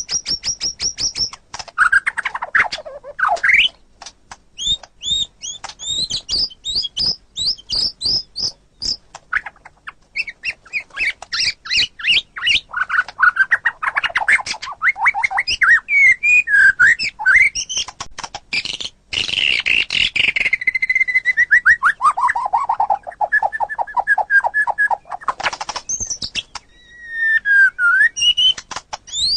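White-rumped shama (murai batu) singing a long, varied song: fast runs of repeated notes, sweeping whistles, and about two-thirds of the way through a long run of quick notes falling steadily in pitch, phrase after phrase with only brief pauses.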